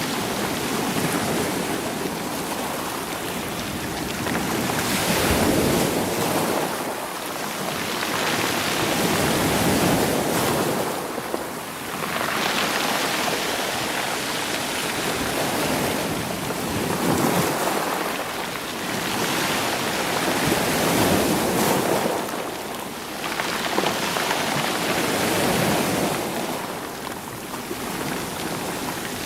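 Sea waves surging in and washing back over a rocky, stony shore, rolling the stones. The noise swells and ebbs in a slow rhythm, one surge every four to five seconds.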